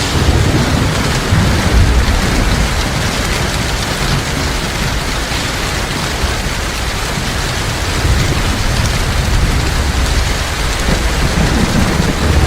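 Heavy rain falling steadily, with low rumbles of thunder swelling in the first couple of seconds, again around eight seconds, and near the end.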